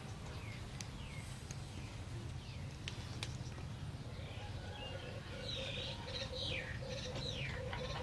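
Bird chirping: a series of short high calls, each falling in pitch, beginning about halfway through and repeating every half second or so, over a faint steady hum.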